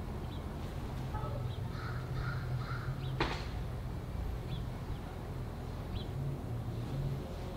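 A bird calling three times in quick succession, with a few short high chirps from other birds, over a steady low hum; a single sharp click about three seconds in.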